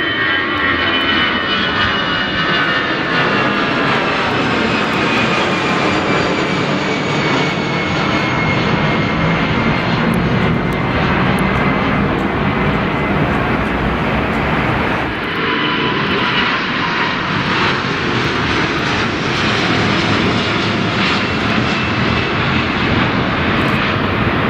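Jet airliner engines running loud and close, a high whine over a roar that slowly falls in pitch as the aircraft passes. About fifteen seconds in, the whine starts again and falls once more.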